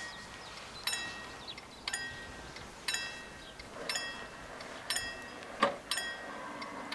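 Level-crossing warning bell striking about once a second, each strike ringing briefly: the crossing is active and warning of an approaching train. One brief sharper sound comes just before the last strike.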